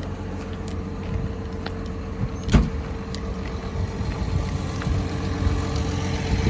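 John Deere 850K LT bulldozer's diesel engine idling steadily with a low rumble and a steady hum, and a single sharp knock about two and a half seconds in.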